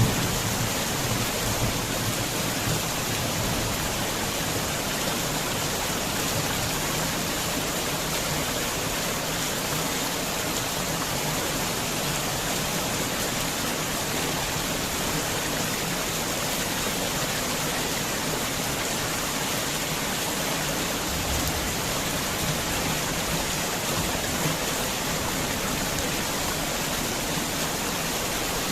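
Heavy rain pouring down in a dense, even hiss. A low rumble of thunder dies away in the first second or so.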